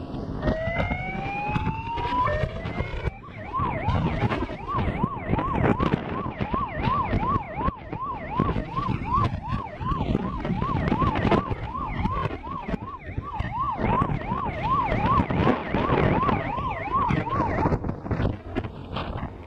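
Emergency vehicle siren: a rising wail in the first two seconds, then a fast yelp cycling about three times a second until near the end, over steady road and wind noise.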